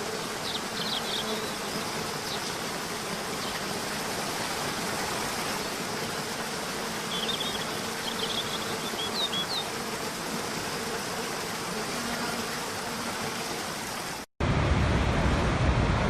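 Waterfall water rushing with a steady, even hiss, under a faint steady buzz and a few short high chirps about half a second in and again around seven to nine seconds in. Near the end it cuts abruptly to a louder, deeper rush of water.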